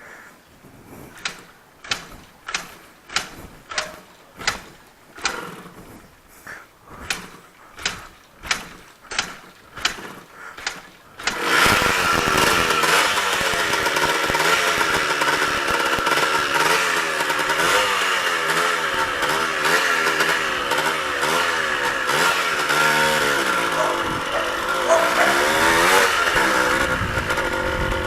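Yamaha DT125 two-stroke single being kick-started after sitting unused: a run of regular sharp clacks, about one and a half a second, then the engine catches about eleven seconds in and runs, revved up and down.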